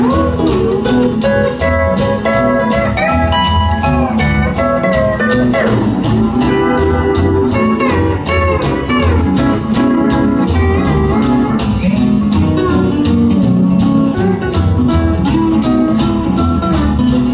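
Live honky-tonk country band playing an instrumental break: a guitar solo with sliding notes over a steady, pulsing bass beat.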